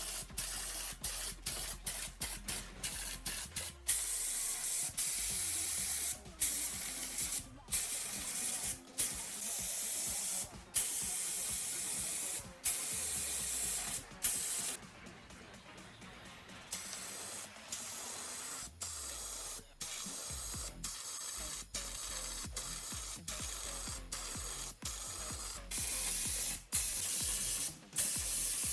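Paint being sprayed onto a scale model in many short, separate bursts of hiss. Some bursts last under a second and others several seconds, each cut off abruptly.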